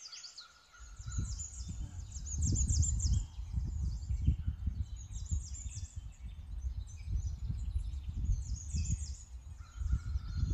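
Small birds chirping and twittering in quick, high-pitched runs, over wind buffeting the microphone, a gusty low rumble that comes in about a second in.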